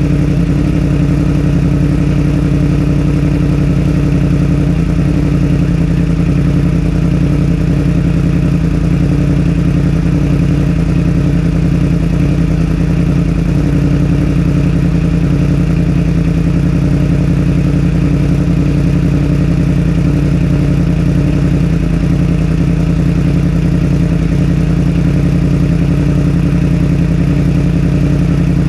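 2021 Yamaha R1's crossplane inline-four engine idling steadily, with an even, unchanging note.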